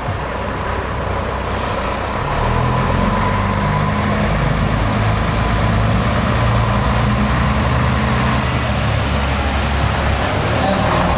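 Heavy diesel truck engine running steadily, a deep hum that grows louder about two seconds in and then holds.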